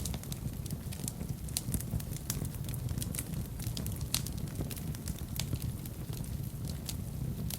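Fire in a fireplace crackling: frequent, irregular sharp pops and snaps over a steady low rumble of the flames.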